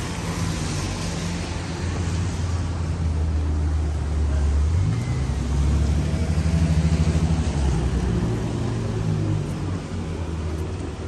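Street traffic with a motor vehicle's engine running close by, a low hum that grows louder through the middle and eases toward the end.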